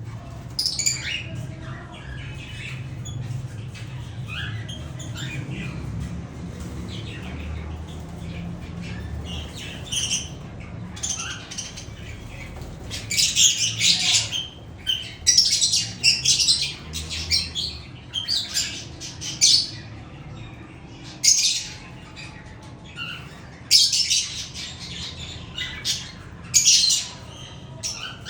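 Pet cockatiels and lovebirds squawking and chirping. Scattered chirps give way about halfway through to loud, shrill calls that come in repeated bursts, over a steady low hum.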